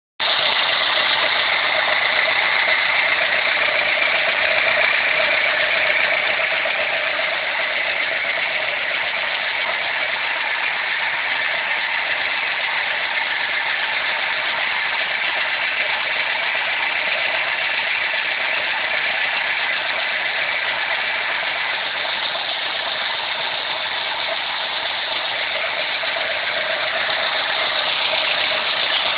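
Renault Clio engine running steadily with a mechanical rattle, a noise the owner suspects comes from a hydraulic valve lifter or a valve.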